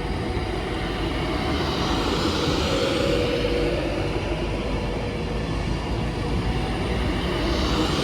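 Class 390 Pendolino electric train pulling away along the track: a steady rumble of wheels on rail, with a faint whine from the traction equipment that comes in about three seconds in and again near the end.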